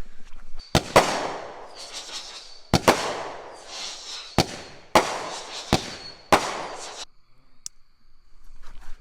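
Consumer fireworks going off: about eight sharp bangs, several in quick pairs, each trailing off over about a second, then the bangs stop for the last couple of seconds.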